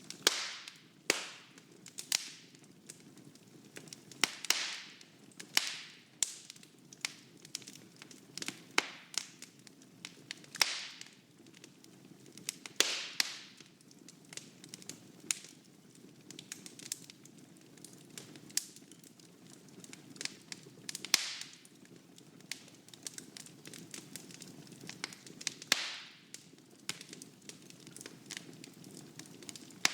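Wood fire burning in a fireplace: irregular sharp pops and snaps, some with a short hiss after them, over a soft low rumble of the flames.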